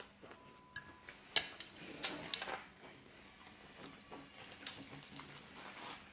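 Cutlery clinking against plates and dishes during a meal: scattered separate clinks, the sharpest about a second and a half in.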